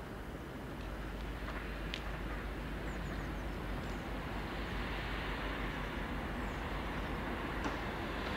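Electric multiple-unit passenger train running past at a distance, a steady rumble and hiss that grows slightly louder.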